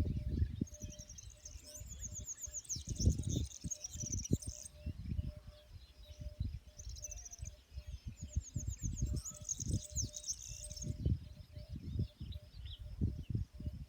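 Songbirds singing outdoors: two long, rapid high trills of about four seconds each, with a shorter one starting near the end, over an irregular low rumbling.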